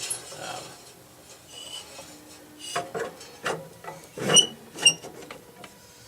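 Tools and metal parts of a jukebox mechanism clinking and knocking while being handled, with scattered light clicks and two sharp ringing metal clinks about four and a half seconds in.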